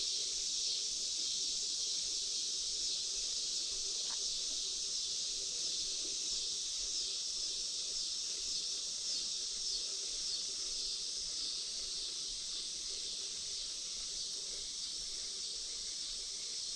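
Steady chorus of insects, a continuous high trilling hiss, with a brief faint tick about four seconds in.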